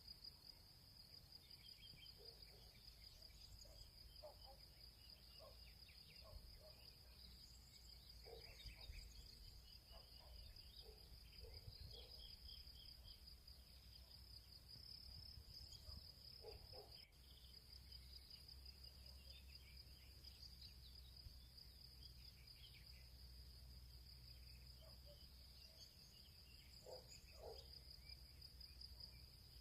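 Faint field ambience: insects, likely crickets, trilling steadily at a high pitch, with scattered short bird chirps and a low rumble underneath.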